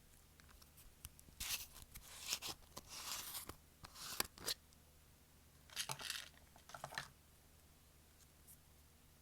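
Slime being pressed and stretched by hand, giving clusters of crackling, sticky clicks and pops from about a second in until about seven seconds.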